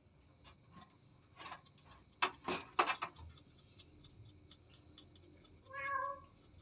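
A few sharp knocks or rustles close together, then a short pitched cat meow near the end.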